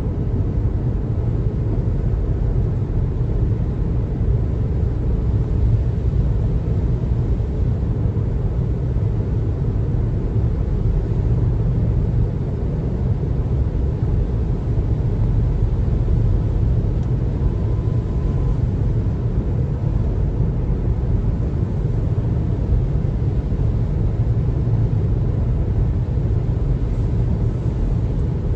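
Car driving on the road: a steady, unbroken low rumble of tyre and road noise.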